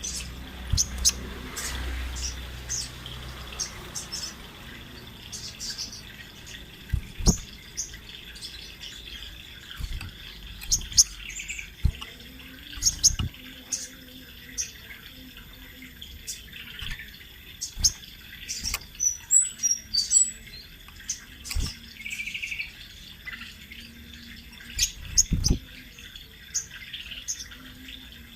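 A sogon bird (sogok ontong, a sunbird) chirping and twittering continuously in many short, high notes, with a brief trill near the end. A few sharp knocks sound in between.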